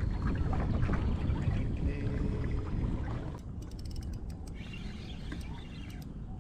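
Wind buffeting the microphone, loudest in the first half, and a fishing reel being wound, its gears giving rapid fine clicks in the second half.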